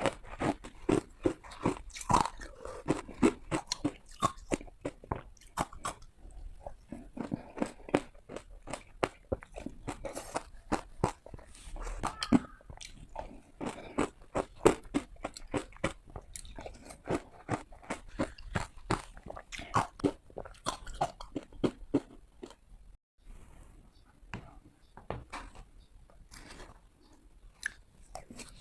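Close-up crunching of hard ice being bitten and chewed: a dense run of crisp, cracking crunches that thin out after a brief dropout a little past the middle.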